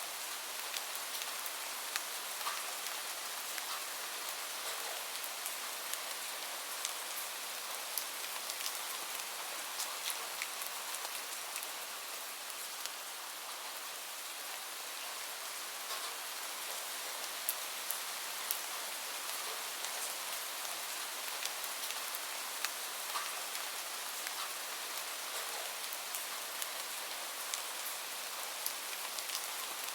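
Steady rain falling, an even hiss with many scattered sharp drip-like ticks.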